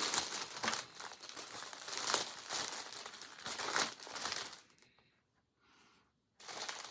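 Packaging crinkling and rustling as skeins of yarn are handled and pushed onto a shelf. It stops about two-thirds of the way through, then starts again just before the end.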